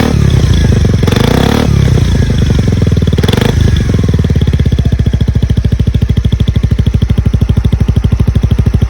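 Suzuki Skywave 250 (CJ46) big scooter's single-cylinder engine, heard through its exhaust, blipped twice, then settling into a steady, evenly pulsing idle.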